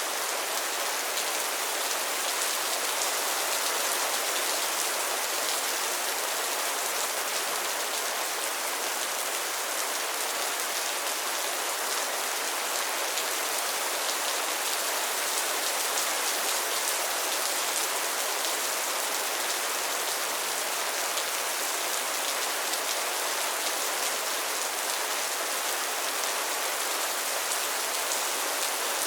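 Steady rain falling on still pond water and floating lily pads: a constant, even hiss of many small drops pattering on the water surface and leaves.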